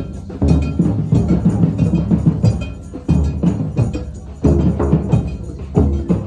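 Live music led by rhythmic percussion: quick, sharp knocking hits over a heavy low end, with the loudness jumping up several times.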